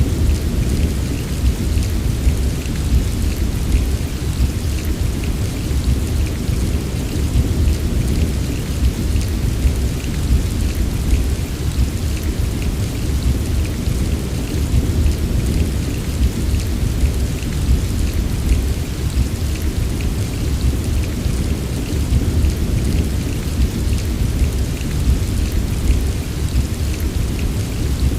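Steady heavy rain, with a constant deep rumble underneath and fine patter of drops above it.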